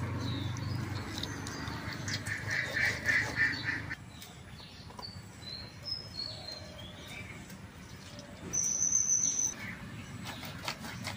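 Birds calling: short high chirps throughout, a rapid pulsing call about two seconds in, and one high steady whistle lasting about a second near the end. A low hum sits under the first few seconds.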